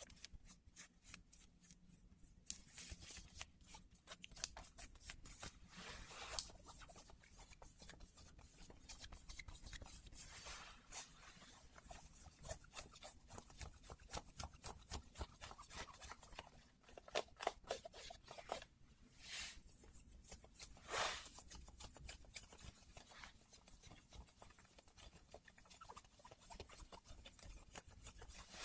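Close-miked denim jeans being scratched and rubbed, a dense run of quick fine scratching strokes broken by a few louder swipes.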